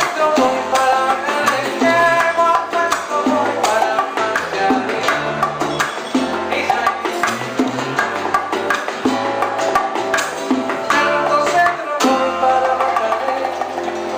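Old-school Cuban band music played live: a bass line stepping from note to note under hand percussion and melodic instruments, with no pause.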